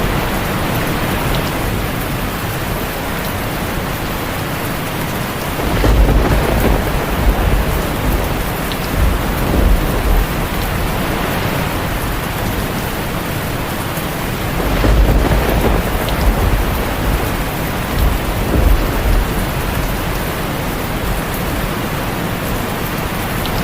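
Heavy rain falling steadily on a tin roof, with thunder rumbling twice: once about a quarter of the way in, and again a little past the middle.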